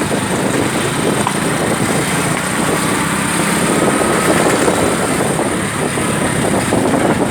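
Steady road traffic noise from vehicle engines, motorcycles among them, running on a congested highway.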